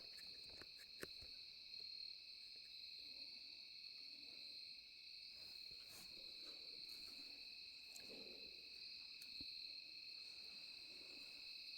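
A steady chorus of crickets and other night insects: an unbroken high-pitched drone, with a few faint clicks.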